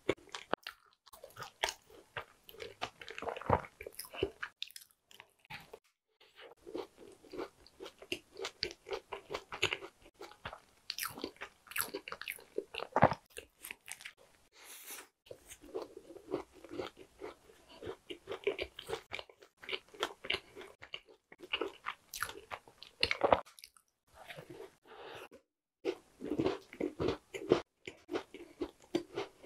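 Close-miked chewing and crunching of crumbly tart pastry, with bites into the crust and moist mouth sounds, broken by several brief pauses.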